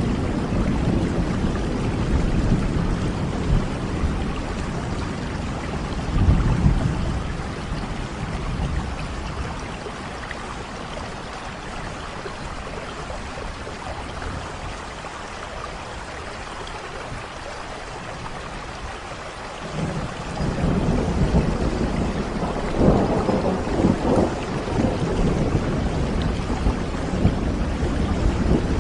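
Steady rain with rolling thunder. The low rumble eases off for a while in the middle and swells again about two-thirds of the way through.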